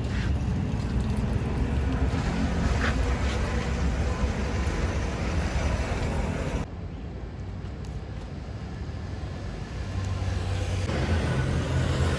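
Roadside traffic noise: a steady rumble of passing vehicles' engines and tyres. It drops away abruptly a little past halfway, then comes back near the end.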